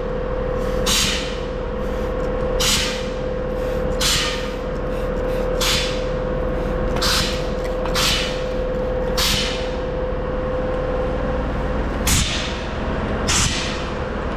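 Repeated short hissing sprays, about one every second and a half, over a steady hum, during a soapy-water pressure test for leaks on a newly welded fuel tank.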